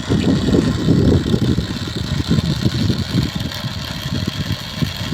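Motor of a homemade toy helicopter running steadily, spinning its rotor, with a rapid low flutter.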